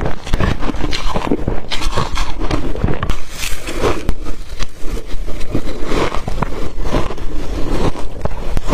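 Close-miked bites and crunching of blender-crushed ice in the mouth: a continuous, dense run of crackles and crunches.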